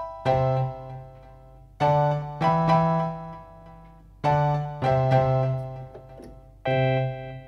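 Yamaha PSR-175 home keyboard playing a piano-like preset: chords over a bass note, struck sharply and left to die away, in pairs about every two seconds.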